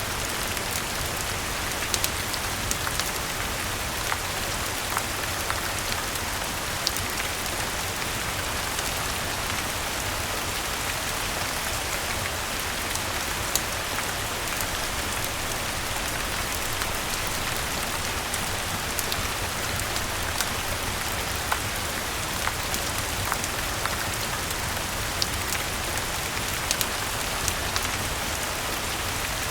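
Steady rain falling on garden leaves, mixed with a fireplace crackling: an even hiss of rain with scattered sharp pops every second or two.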